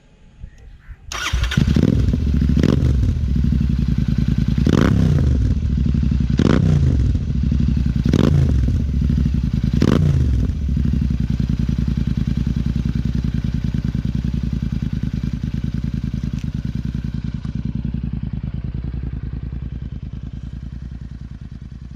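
Royal Enfield Interceptor 650's 648 cc parallel-twin engine breathing through a Red Rooster Performance aftermarket exhaust. It starts about a second in, is blipped five times in quick revs that rise and fall back, then settles into a steady idle.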